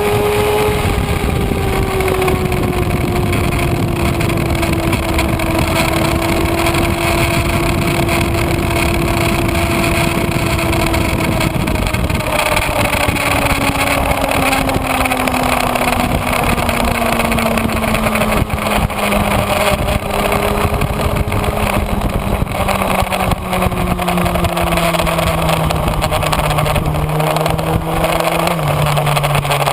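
Kawasaki Ninja ZX-6R inline-four engine running under a rush of wind noise, its pitch sinking slowly as the bike slows, with a couple of small jumps in pitch near the end as gears change.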